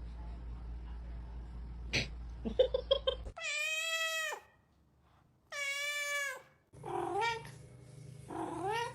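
A cat meowing. A few short chirps come first, then two long, loud meows that hold their pitch and drop at the end, then two more meows that rise in pitch near the end.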